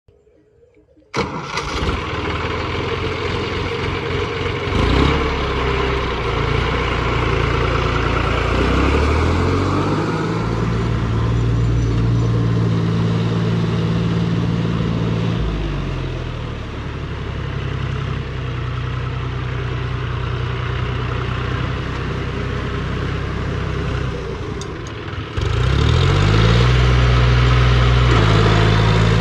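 Tractor diesel engine starting up about a second in and running loudly, its pitch rising as it is revved around ten seconds in and again sharply near the end.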